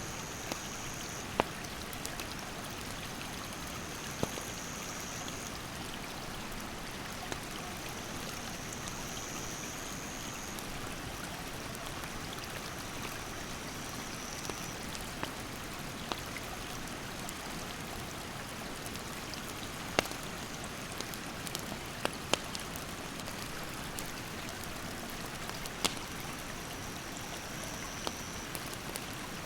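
Steady rush of a mountain stream, with sharp pops and crackles from a wood campfire now and then. A high, thin insect drone comes and goes in stretches of a few seconds.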